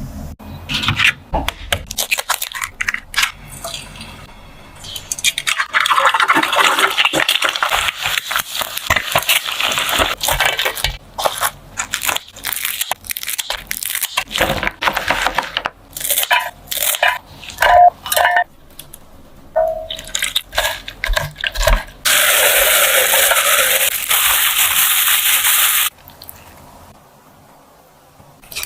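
Kitchen handling sounds: a run of clicks, taps and crackles, with a steady hiss lasting about four seconds near the end.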